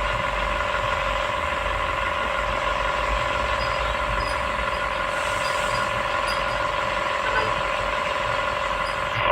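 Excavator's diesel engine running steadily, with a constant whine over a low rumble.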